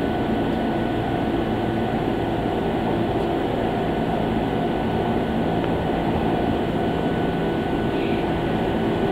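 Steady drone of Ohmi Railway electric trains at a station platform: a low rumble with several steady tones held through, no rise or sudden event.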